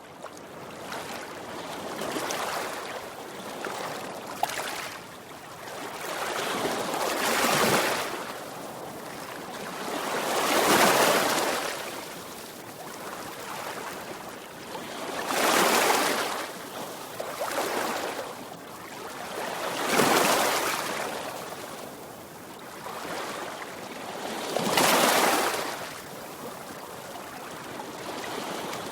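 Sea waves breaking and washing back, rising and falling with a louder wave about every four to five seconds.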